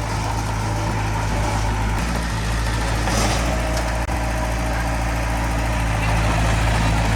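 Diesel engine of heavy earthmoving machinery running steadily, a low even hum.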